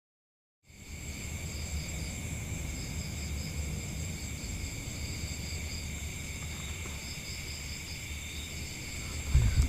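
A steady chorus of forest insects, several high-pitched trills going on together without a break, over a low rumble. Near the end there is a loud low thump.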